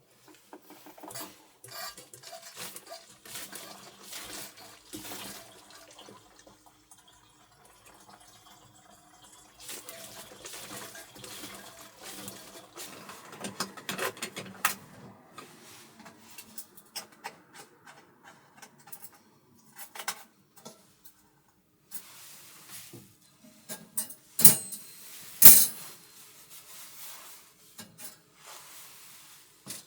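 Small handling sounds of dishes and utensils with some splashing water: scattered clinks and knocks, and two louder sharp clacks near the end.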